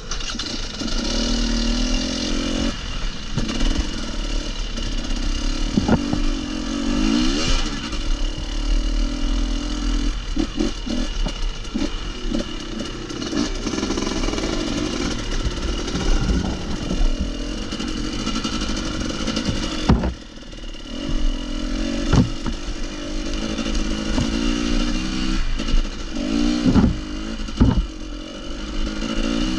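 Off-road motorcycle engine revving up and down over and over as it is ridden over rough ground, with sharp knocks here and there.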